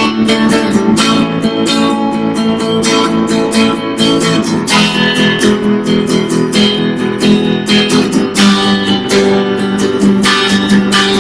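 Acoustic guitar music, strummed and plucked chords at a steady rhythm.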